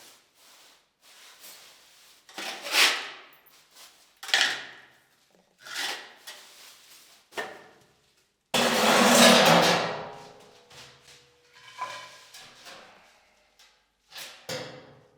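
Handling and knocking noises of renovation work: a string of separate knocks and clunks every second or two. The loudest comes about eight and a half seconds in, a sharp clatter that fades over about a second with a faint ring.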